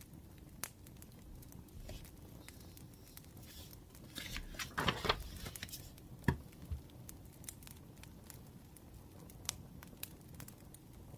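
Wood fire crackling faintly with scattered small pops. About four seconds in comes a louder rustle lasting around two seconds, then a single knock just after six seconds.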